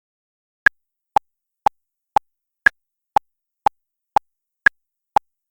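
Countdown-timer tick sound effect: ten sharp ticks, two a second, every fourth one higher in pitch, counting down the time to answer the puzzle.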